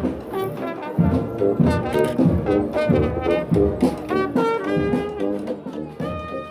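Brass band playing a tune, trombones and trumpets over a drum beat of about two strokes a second.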